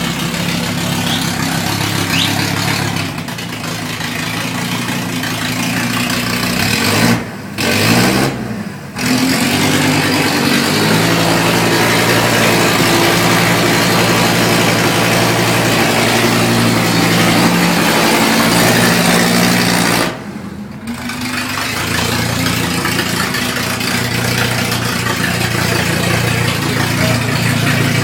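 Volkswagen Syncro bus's 2.5i five-cylinder engine running with no exhaust fitted, being revved for the first time. Two quick blips come around a quarter of the way in, then the revs are held up for several seconds and drop back about two-thirds of the way through, and it settles to a steady run.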